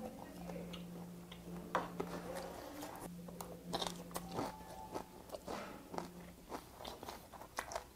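A man chewing a mouthful of lettuce-wrapped pork and fermented skate, with quiet crunches and short wet clicks of the mouth at an uneven pace.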